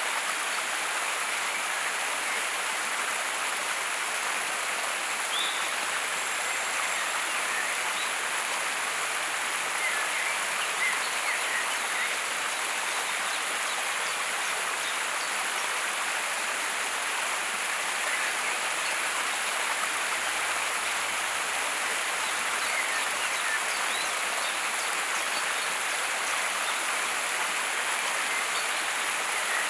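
Steady rushing water noise, even throughout, with a few faint short chirps now and then.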